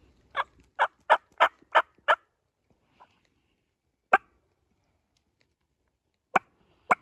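Turkey yelps: a quick run of six sharp yelps, then a single yelp, then two more near the end.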